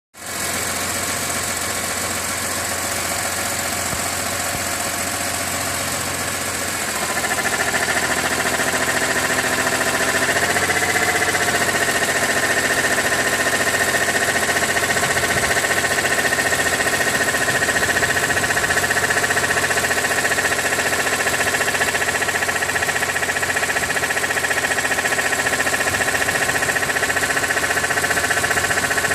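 BMW E46 M3's S54 straight-six engine running steadily. About seven seconds in it gets louder, and a few seconds later its pitch rises slightly and holds, with a steady high tone above the engine note. The owner is trying to identify an abnormal engine noise that appears once the oil is above 80 °C.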